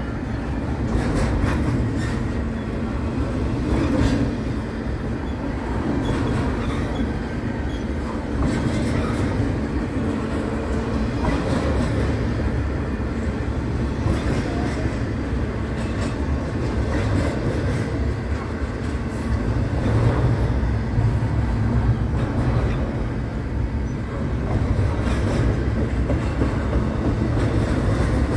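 Double-stack intermodal well cars rolling past: a steady low rumble of steel wheels on rail, with occasional short clicks and clanks.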